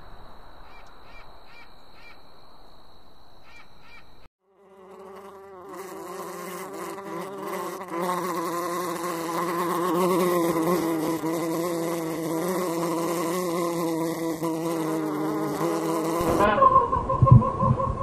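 Horntail wood wasp buzzing in flight: a loud, steady buzz lasting about twelve seconds, after a few seconds of faint high whine with short chirps at the start. Near the end a different, louder sound with a steady high tone takes over.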